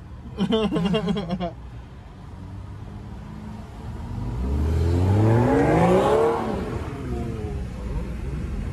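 A car engine under a hard full-throttle pull, revving up steadily in pitch from about four seconds in, peaking around six seconds, then falling away.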